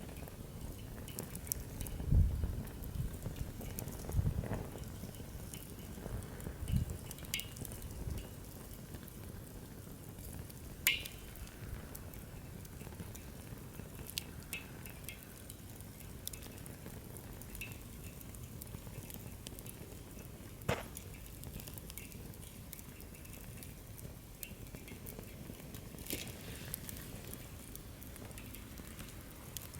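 Wood campfire burning in a fire-pit stand, with scattered crackles and a few sharper pops from the burning logs, the loudest about 11 and 21 seconds in. A few low thumps come in the first seven seconds.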